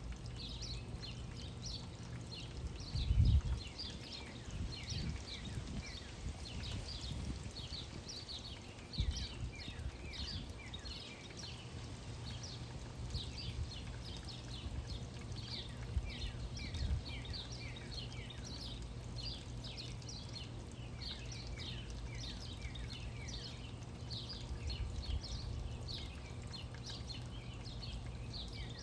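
Songbirds chirping continuously, a dense stream of short, high, falling chirps from several birds. There are a few low thumps, the loudest about three seconds in and another around nine seconds.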